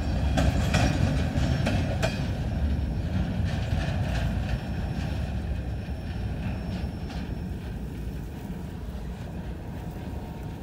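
Freight train's last cars rolling past: a low rumble with wheel clacks over the rail joints in the first couple of seconds, fading steadily as the tail end moves away.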